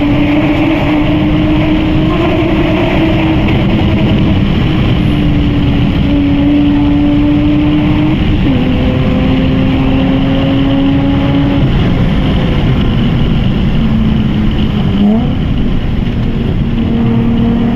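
Lexus IS200's straight-six engine running through a full Japspeed aftermarket exhaust while driving, a steady exhaust drone over road rumble. The engine note dips twice, about eight and twelve seconds in, then rises sharply about fifteen seconds in before settling.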